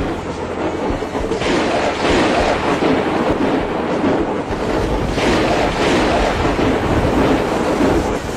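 Loud rushing water surging in waves, swelling about a second and a half in and again about five seconds in, with wind buffeting the microphone.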